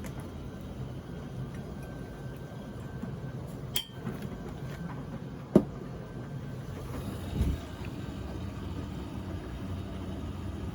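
Beko washing machine running at the start of a wash, a steady low hum. A faint click comes nearly four seconds in, a sharp loud click about five and a half seconds in, and a dull knock about two seconds after that.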